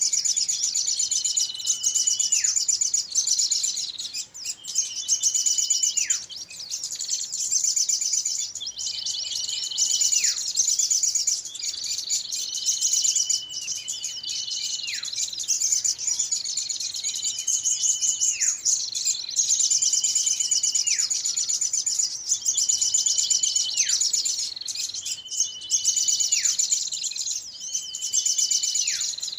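Bird-lure recording of many small songbirds calling together: dense high twittering, with a call every couple of seconds in which a held whistle drops steeply in pitch.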